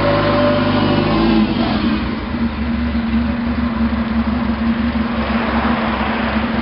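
Ferrari GTB Turbo's 2-litre turbocharged V8 running as the car drives slowly past. The engine note is raised for the first second and a half, then drops to a low, even burble with a steady pulse about three times a second.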